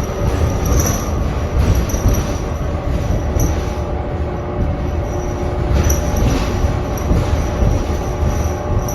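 Cabin of a 2019 New Flyer XD40 diesel transit bus under way: low drivetrain rumble under steady whining tones, with a high-pitched squeal that swells and fades every second or so. It is the weird noise the owner of the recording says makes the bus sound insane, cause unknown.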